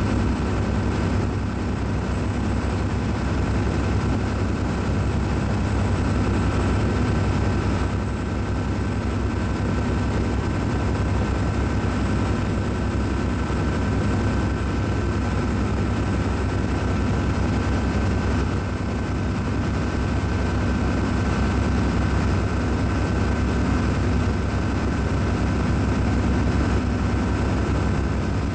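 Steady low machinery drone with a few constant whining tones above it, unchanging throughout.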